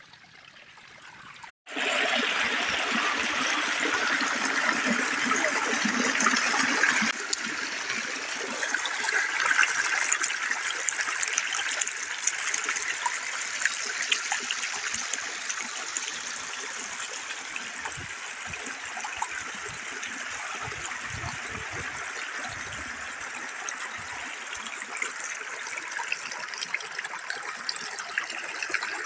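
Water starting to spout about two seconds in, then gushing in a steady stream that eases slightly a few seconds later and runs on evenly.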